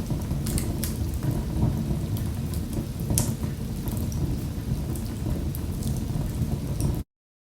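Wood fire crackling in a fireplace: a steady low rumble of flames with sharp pops and snaps scattered through it. The sound cuts out suddenly near the end.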